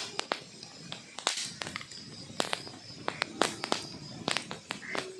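Wood fire crackling, with irregular sharp pops and snaps from the burning logs.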